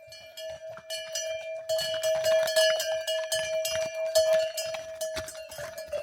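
Bells on a string of pack horses clinking and ringing irregularly as the animals walk, busier from about a second in, over a steady tone.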